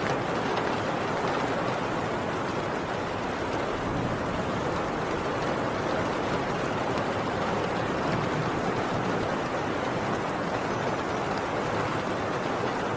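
Heavy rain falling steadily on a tin roof: a dense, even patter with no let-up.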